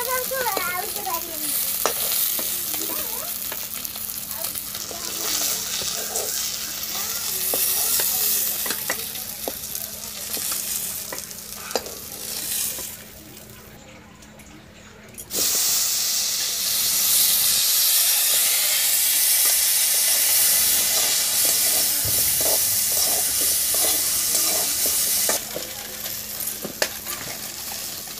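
Hot oil sizzling in a metal kadai while fried rohu fish pieces are turned and lifted out with a metal spatula, with scrapes and clicks of the spatula on the pan. The sizzle dies down about 13 seconds in, then comes back suddenly much louder about 15 seconds in, with potato wedges frying in the oil from then on.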